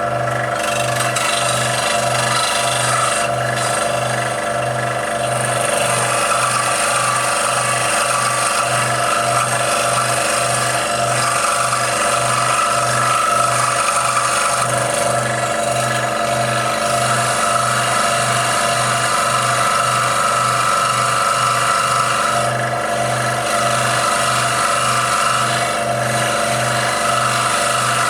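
Scroll saw running with its blade cutting through 3 mm brass plate: a steady mechanical buzz with the rasp of the cut and a low hum that pulses evenly.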